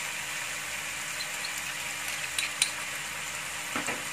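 Tofu and vegetable stir-fry sizzling steadily in a frying pan over a gas flame, left to simmer with its sauce and a little water, with a few small pops a little past halfway.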